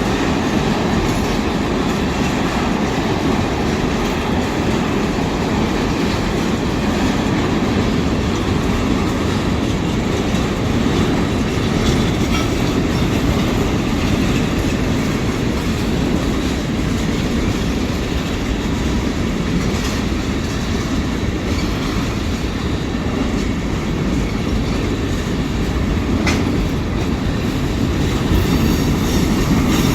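Union Pacific freight train's cars rolling past: a steady, loud rumble of steel wheels on rail, with a few sharp clicks from the wheels crossing rail joints.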